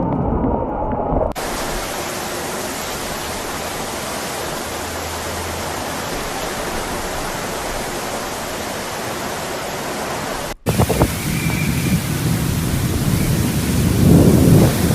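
Heavy rain falling as a steady, even hiss. It cuts off abruptly about ten seconds in, and a second stretch of rain and wind follows, with low rumbles building near the end.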